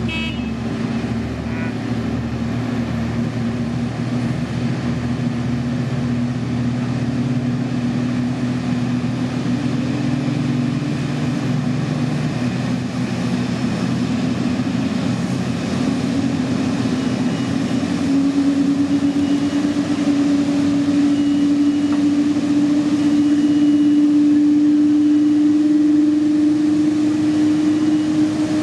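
Boeing 787-8's GEnx-1B turbofan engines running with a steady jet whine and hum. The hum rises slightly in pitch and grows louder in the second half.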